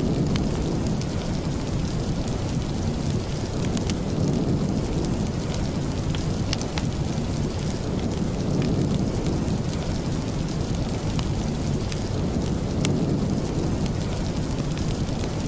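Steady rain falling, with a deep low rumble beneath it and many small sharp ticks scattered through the whole stretch.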